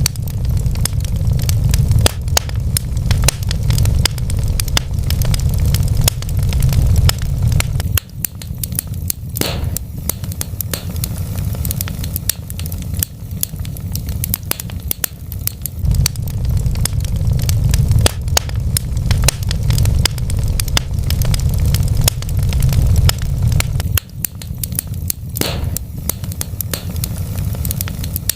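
Wood fire burning in a fireplace: continual crackling and snapping of burning logs over a steady low rumble of flames, with a couple of louder pops.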